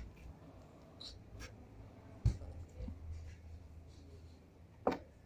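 Faint taps, clicks and rustling of hands handling something, with a sharper knock about two seconds in and another near the end.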